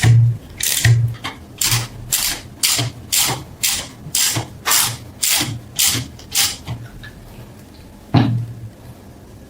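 Rhythmic scraping strokes, as of hand-scrubbing or filing metal, about two a second and growing fainter, then one harder stroke with a falling pitch about eight seconds in.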